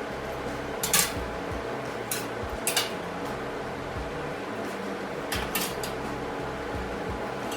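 Pieces of steel clanking as they are handled and set down, about five sharp metallic strikes with a quick pair near the end, over a steady low hum.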